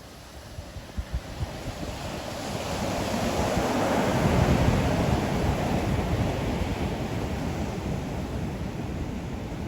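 Ocean waves on a beach: a wave's rush swells, breaks at its loudest about halfway through, then slowly washes back. A few low gusts of wind buffet the microphone about a second in.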